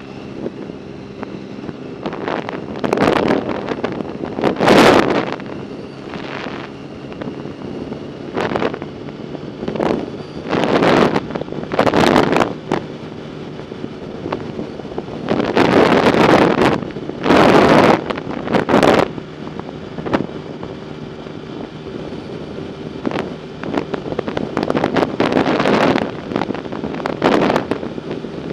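Wind buffeting the microphone in irregular gusts while riding, some lasting a second or two, over a steady low hum.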